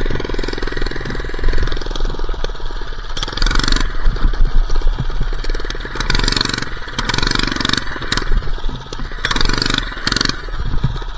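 A minibike's small engine running under throttle as the bike is ridden. Several bursts of rushing wind noise hit the microphone.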